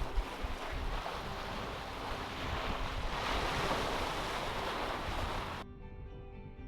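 Wind and sea water rushing around a sailboat under way in choppy, rolling seas, with wind buffeting the microphone. The rushing cuts off suddenly near the end, leaving only quiet background music.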